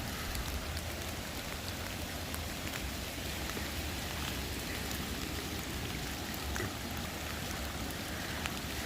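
A rain-swollen creek rushing steadily, running far higher than usual after heavy rain, with scattered water drops ticking now and then.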